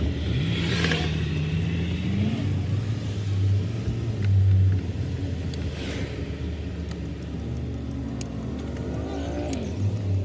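Car driving, with steady engine and road noise. The engine pitch rises as it accelerates near the start and again late on.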